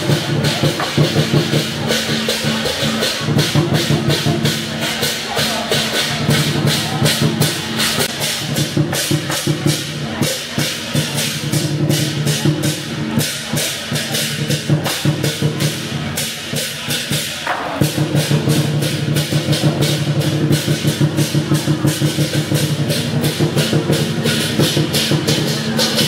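Percussion music accompanying a dragon dance: fast, even strokes, about five a second, over a held low tone that fades in the middle and comes back strongly near two-thirds of the way through.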